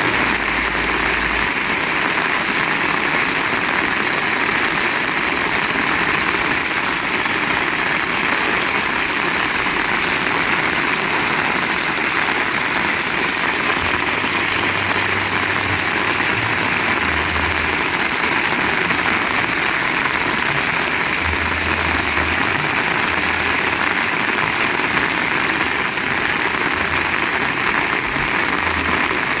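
Heavy rain falling steadily, a dense, even hiss. Short low rumbles come and go a few times from about halfway through.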